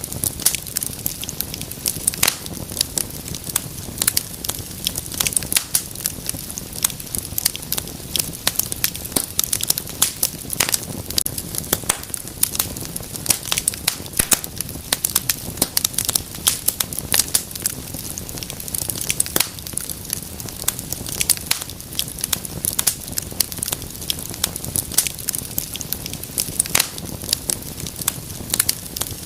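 Wood fire in a fireplace crackling, with frequent sharp pops and snaps over a steady low rumble of flames.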